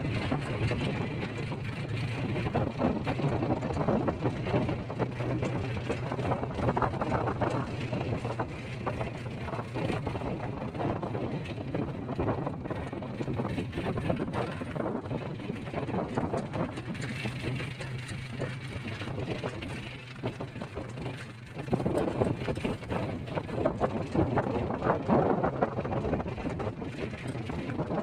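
A vehicle driving along a winding road: a steady engine hum under road and wind noise, dropping briefly about two-thirds of the way through before picking up again.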